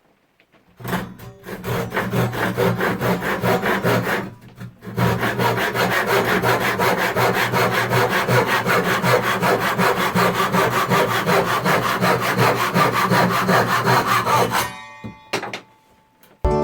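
Parkside hand saw sawing through wood with rapid back-and-forth strokes. It starts about a second in, pauses briefly about four seconds in, and stops near the end.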